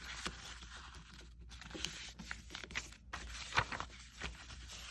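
A sheet of paper being folded into quarters: rustling with short crinkles and scrapes as the folds are creased.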